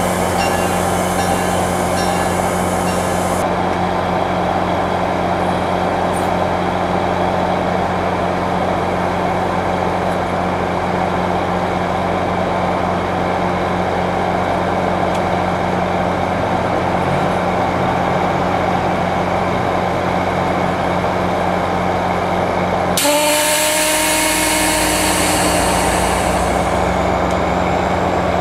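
A commuter train at a station platform, running with a steady low hum. About 23 seconds in, the sound changes suddenly to a loud hiss with several tones gliding down in pitch.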